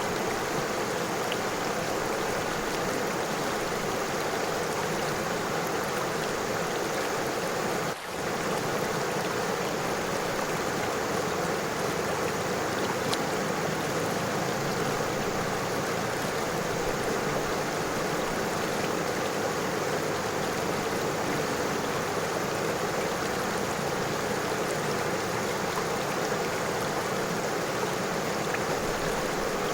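River water flowing steadily over stones, an even rushing with no pauses; it dips for an instant about eight seconds in.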